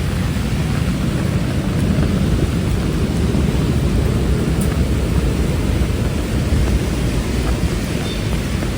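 Heavy rain pouring, a steady loud wash of noise with a deep rumble underneath.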